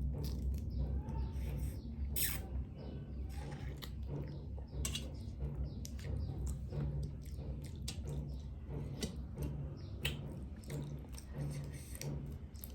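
Close-miked eating of crab: chewing and sucking meat from the shell, with many short sharp clicks and cracks scattered throughout.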